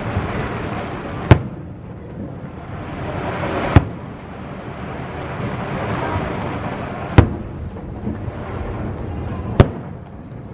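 Aerial fireworks shells bursting: four sharp bangs, two to three seconds apart, each with a short echoing tail, over a continuous hiss.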